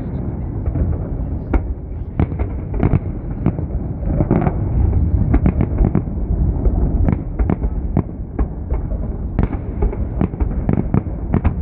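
Fireworks display: a rapid, irregular series of sharp bangs, a few a second, over a continuous low rumble.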